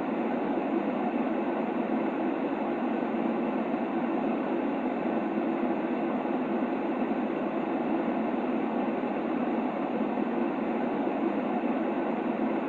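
Steady white noise: an even, unchanging rushing hiss, fuller in the low-middle range than in the highs.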